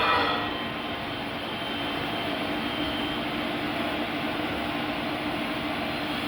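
Cylinder boring machine running steadily, boring the cylinders of a Komatsu PC130 engine block: an even mechanical hum with a faint steady tone.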